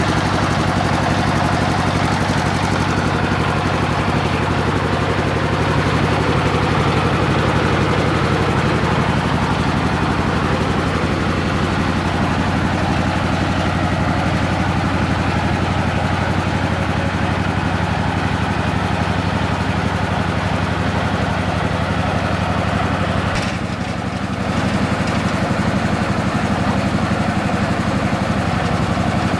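A homemade water-well drilling rig's motor runs steadily with a constant low hum, dipping briefly about three-quarters of the way through before picking up again.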